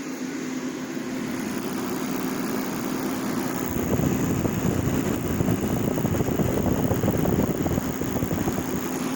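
Heat Star portable propane heater burning with a steady roar and a constant low hum. About four seconds in, a louder, lower rumble joins for several seconds, then eases off.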